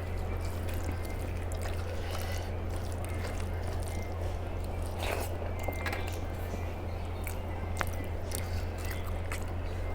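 Wet, squishy eating noises and small scattered clicks of a meal being eaten, over a steady low hum.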